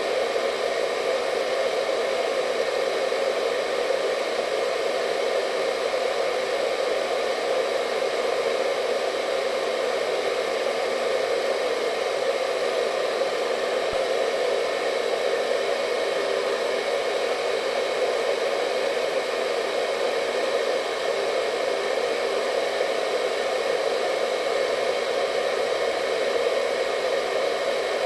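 Hair dryer running steadily: an even, unbroken rush of air, deepest and strongest in the lower middle, with faint steady whine tones above it.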